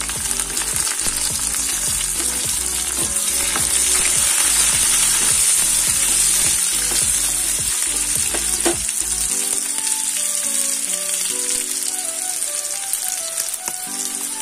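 Carrot sticks, onion and green chillies sizzling steadily in hot oil in a kadai, just after the carrots went in. A music melody plays along, its low beat dropping out about two-thirds of the way through.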